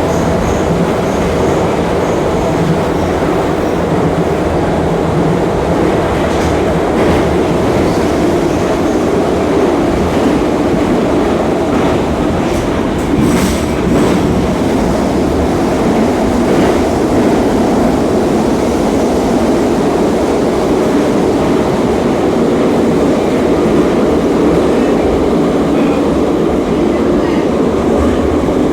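Moscow metro 81-717.5M 'Nomernoy' train heard from inside the car while running at speed in the tunnel: a steady rumble and rail noise. A short run of sharp clicks from the wheels comes about 13 seconds in.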